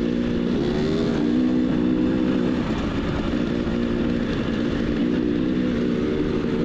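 Dirt bike engine running at a steady, moderate speed, rising slightly in pitch about a second in, over a low rumble.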